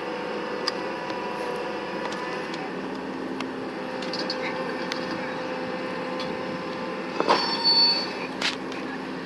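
Steady drone of the engine of the machinery lifting the sunken boat's wreck, running at an even pitch. About seven seconds in there is a brief, louder high-pitched sound, with a second short one a moment later.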